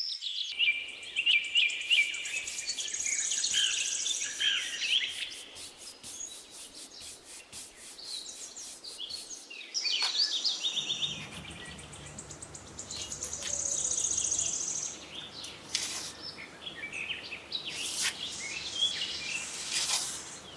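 Birds chirping and calling over a buzzing of insects, with scattered sharp clicks. A faint low steady hum joins about halfway through.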